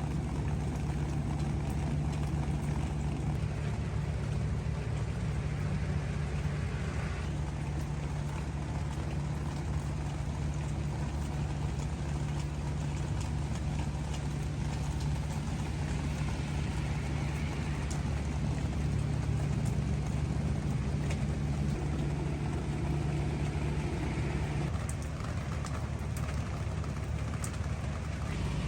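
Rain falling on garden vegetables and flowers: a steady hiss with scattered raindrop ticks on the leaves, over a steady low hum that eases about 25 seconds in.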